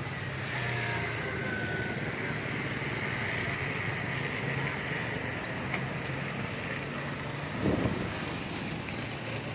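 Road vehicles running by, a low engine hum over a steady wash of noise, with a brief louder sound about three quarters of the way through.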